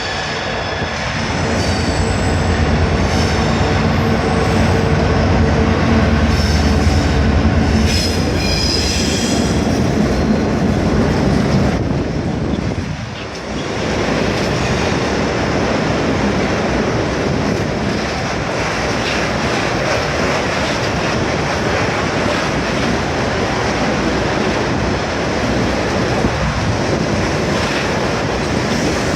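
A Class 66 diesel locomotive's two-stroke V12 engine running loud as it passes, with high wheel squeal for a few seconds, then a rake of ballast wagons rolling by with steady wheel rumble and clickety-clack on the rail joints.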